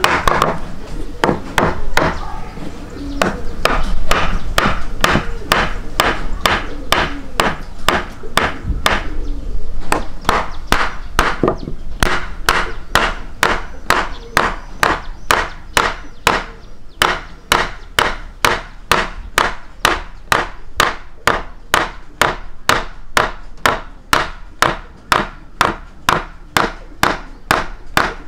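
Sharp knocks struck in an even rhythm, about two a second, with other rustling noise under them through the first ten seconds or so.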